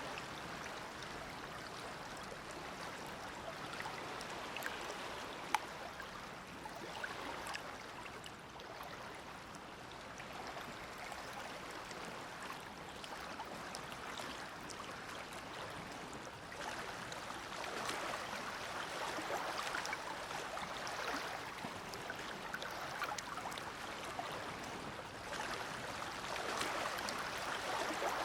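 Small waves of the Dead Sea lapping and splashing at the shore: a steady wash of water with soft splashes that swells a little in the second half. A single sharp click sounds about five seconds in.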